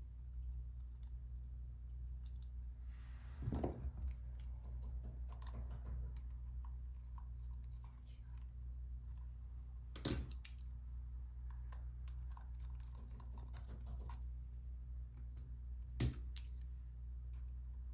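Small clicks and taps of hand tools and small plastic and metal parts as a Sony SELP1650 zoom lens is being taken apart, with three louder sharp knocks spread evenly through. A steady low hum runs underneath.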